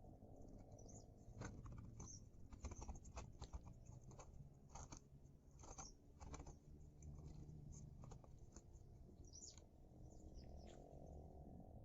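Faint, irregular small clicks and taps, several a second at times, over a low steady hum.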